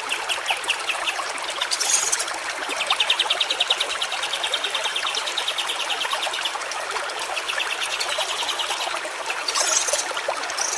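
Water trickling steadily over stones in a small stream. A high, rapid pulsing trill of short notes runs over it in two long stretches, with two brief hissy high bursts.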